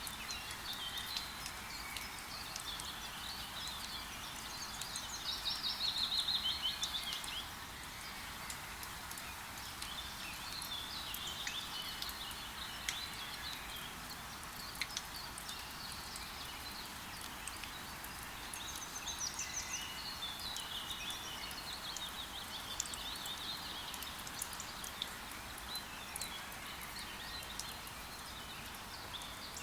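Steady hiss of rain in a forest, with sharp drip-like ticks scattered through it. Birds chirp and trill throughout, the loudest a rapid trill about five to seven seconds in.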